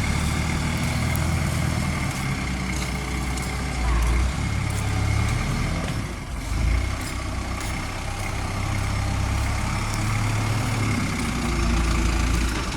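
Forklift's Isuzu C240 four-cylinder diesel engine running steadily, its loudness swelling briefly about four seconds in, about seven seconds in, and near the end.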